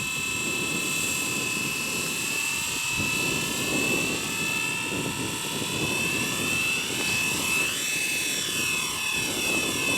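Blade 230 S V2 electric collective-pitch RC helicopter in flight: a steady high motor and rotor whine over a low rushing hum. About seven to nine seconds in, the pitch swings up and down as it manoeuvres.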